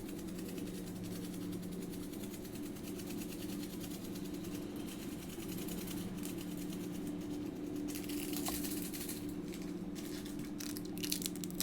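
A steady low mechanical hum, with a few light clicks and rustles near the end.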